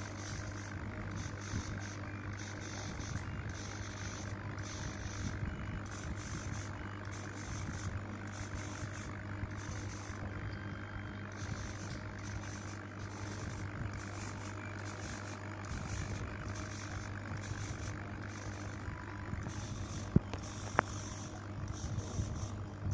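A homemade CNC laser machine running: a steady low motor hum, with a higher whine from the motors that starts and stops every half second to a second as the head moves. Two sharp clicks come near the end.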